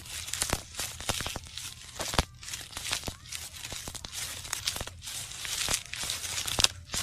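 Plastic bags being handled and squeezed, crinkling and crackling with many irregular sharp clicks.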